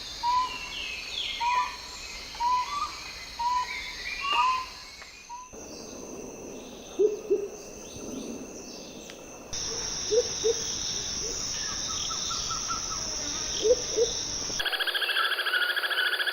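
Bird calls from several recordings cut one after another. First comes a series of short, upslurred whistled notes about once a second. Then, in two further clips, low paired hoots. Near the end a steady, fast-pulsing buzzing chorus takes over.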